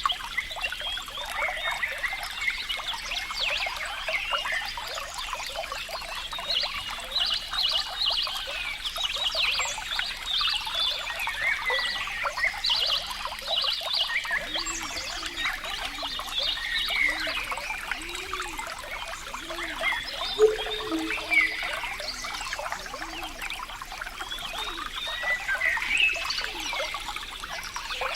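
Water trickling and bubbling steadily, with frogs calling; a run of low, evenly repeated croaks comes in the middle.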